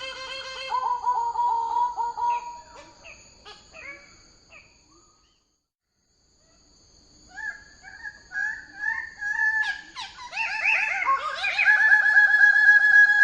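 Bird-of-paradise calls: rapid, pulsed notes that fade out and break off into a second or so of silence, then start again and grow loud. They end in a steady, fast trill.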